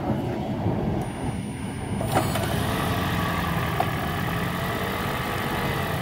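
A 2010 Toyota Prius starting up after being jump-started from a portable jump starter on its dead 12-volt battery: a click about two seconds in, then a steady running hum with a few held tones.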